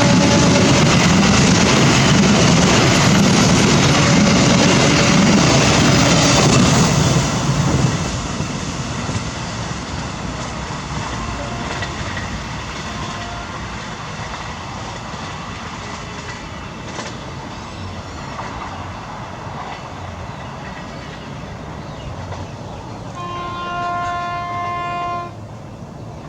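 A train passing close by on the rails, loud for the first seven seconds or so and then fading as it moves away. Near the end a horn sounds one chord-like blast for about two seconds.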